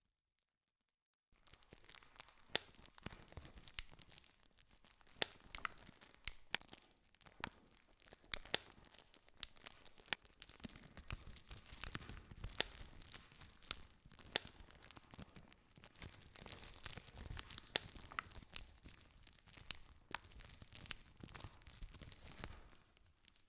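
Wood fire crackling, with many sharp pops and cracks over a soft hiss. It starts suddenly about a second in after a moment of silence and fades out near the end.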